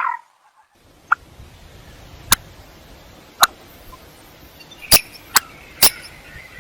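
Common coot calling: a call ending at the start, then a string of short, sharp, explosive notes at uneven gaps about a second apart, with fainter calling behind them toward the end.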